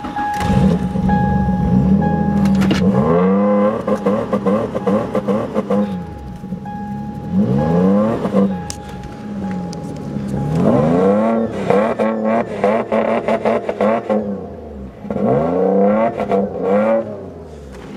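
Mercury Mystique's Duratec V6 cold-starting after sitting about four days. It runs and is revved up and back down four times, between stretches of idle.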